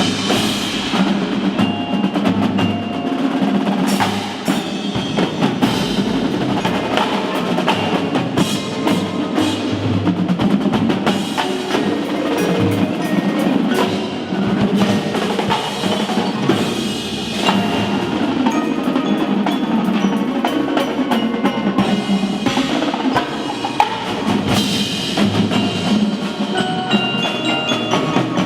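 Indoor drumline playing: mallet keyboards such as marimba and glockenspiel ring out pitched notes over a dense run of drum strokes and rolls.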